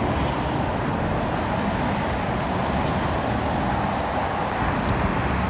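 Steady city traffic noise, an even rumble with no distinct events.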